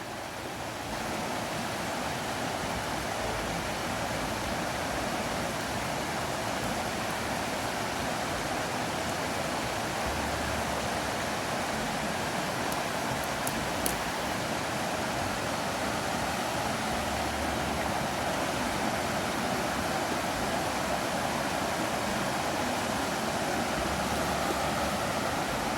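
Steady rushing of a flowing stream, an even wash of water noise with no pauses.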